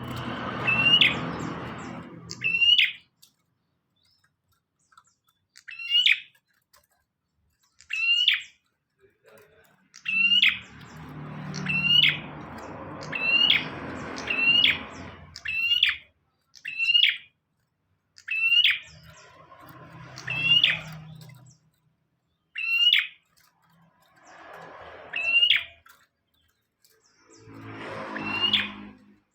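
Bar-winged prinia (prenjak) calling repeatedly: short, sharp, high chirps about once a second, coming in quick runs at times. A lower, rougher background sound rises and fades several times underneath.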